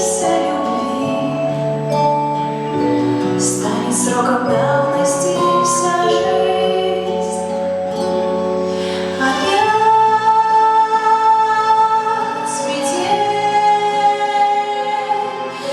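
A woman singing a song over instrumental backing, with long held notes.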